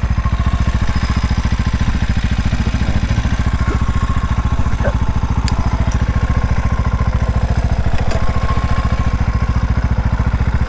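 Herald motorcycle's engine running steadily with an even, rapid pulse, with a few faint ticks in the middle.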